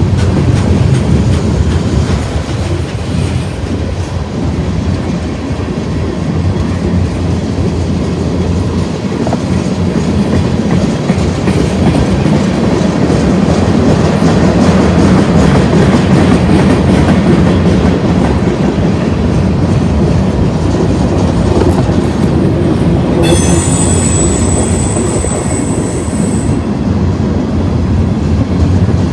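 Union Pacific manifest freight train running past steadily on the rails, with a high-pitched wheel squeal lasting about three seconds near the end.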